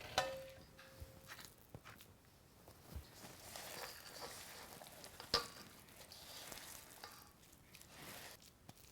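Faint squishing and rubbing of hands rolling a sticky lard and peanut-butter suet mixture into balls, with a short ringing tap near the start and a sharp tap about five seconds in.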